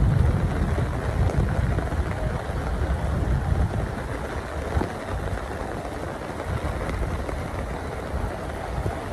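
Rain falling steadily, with wind buffeting the microphone in an uneven low rumble.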